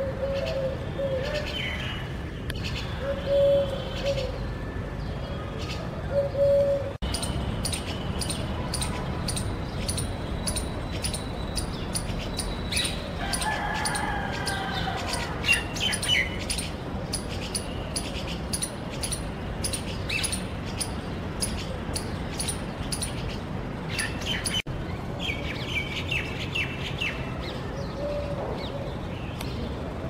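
Birds calling and chirping over a steady low background noise, with a long run of high, evenly spaced chips, a few a second, through the middle.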